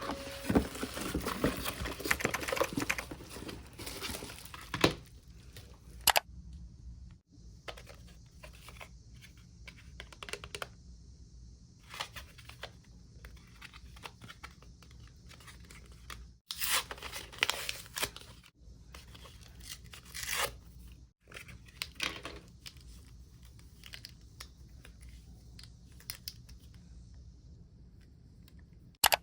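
Packaging being torn open and crinkled, densest in the first five seconds. After that come scattered crinkles, taps and clicks as items are handled.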